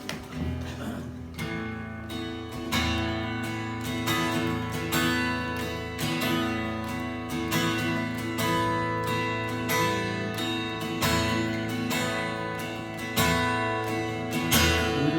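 Praise band playing an instrumental lead-in to a hymn: acoustic guitar strumming steadily over sustained chords and bass notes, with no singing.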